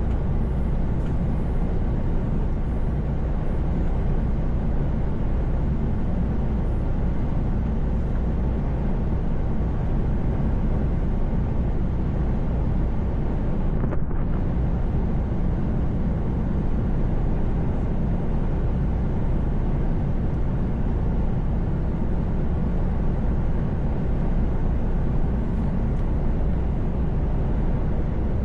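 Truck cab interior at highway speed: a steady low drone of the diesel engine and road noise, unchanging throughout.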